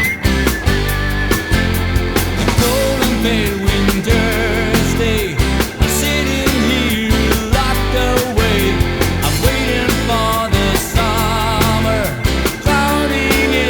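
Pop-rock band recording playing: a steady drum beat, a bass line and a wavering lead melody.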